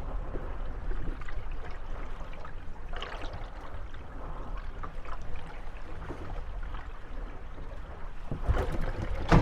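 Moored gondolas rocking on small waves: water lapping and washing against the hulls, with scattered small knocks and creaks as the boats bump each other. A louder cluster of knocks comes near the end.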